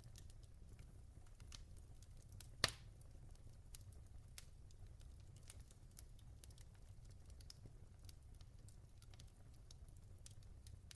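Logs burning in a fireplace, crackling softly: scattered small irregular clicks, with one loud sharp pop about two and a half seconds in, over a low rumble from the fire.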